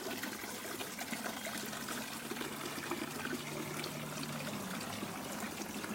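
Water trickling steadily from a small decorative garden fountain.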